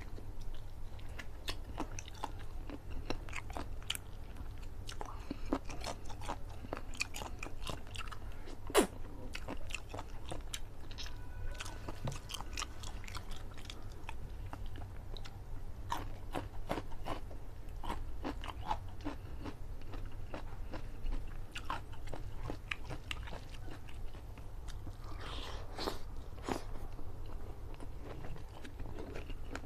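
Close-miked mouth sounds of a man eating curry chicken and rice by hand: chewing and biting with many short sharp clicks, one louder click about nine seconds in, over a steady low hum.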